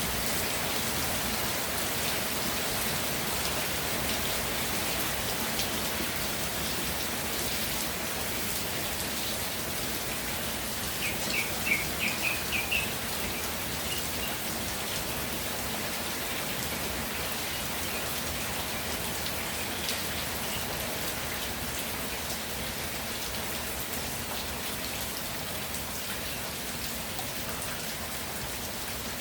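Steady rain falling, an even hiss of drops on the ground. Near the middle comes a brief run of quick, high chirps.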